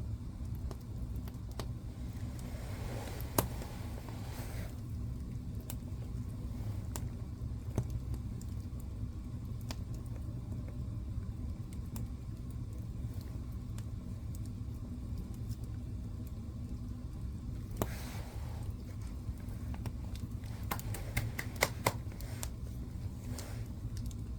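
Wood fire burning in a fireplace: a steady low rumble with scattered crackles and sharp pops, a brief hiss twice, and a quick cluster of pops near the end.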